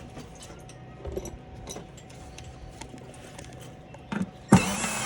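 Light clicks and knocks of hardware being handled, then a sharp knock and a cordless power drill/driver running for about a second while the compressor's mounting bolts are driven down.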